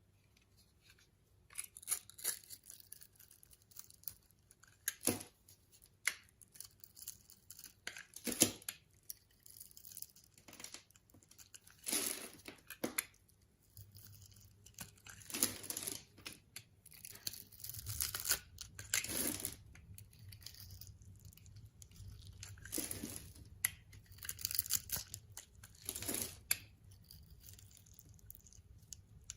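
A knife cutting and scraping into a bar of soap in short, uneven strokes, starting about a second and a half in.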